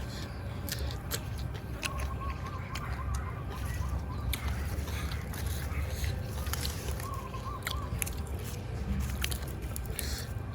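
A person chewing food, with many short wet mouth clicks.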